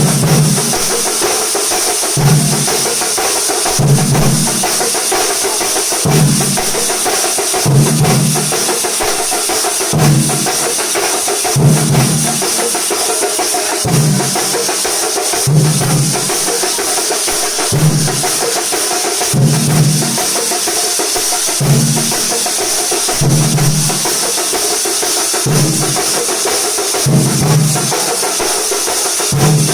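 Thambolam percussion ensemble playing loudly: a heavy low drum beat lands about every two seconds over a continuous dense clatter of drums and a high metallic shimmer.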